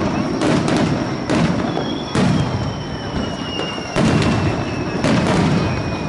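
Aerial fireworks shells bursting, with about six sharp bangs spread unevenly across the few seconds. A thin whistle falls slowly in pitch through the middle.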